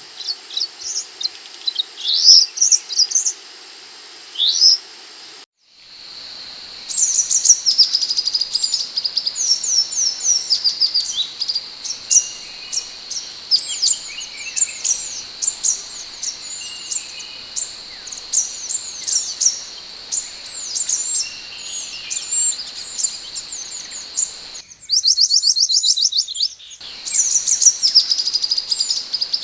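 Scarlet minivet (sepah hutan) calling: a busy run of short, high whistled notes that glide quickly up and down, with a steady high hum beneath. The sound cuts out briefly about five seconds in, and there is a denser burst of rapid notes near the end.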